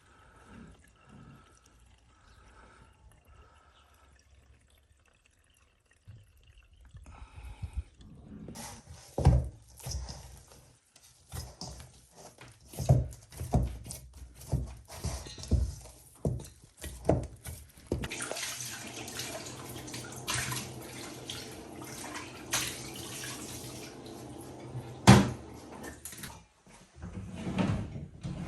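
Kitchen work sounds: dishes and utensils knocking and clattering, then water running from a tap for several seconds, with one loud clunk near the end.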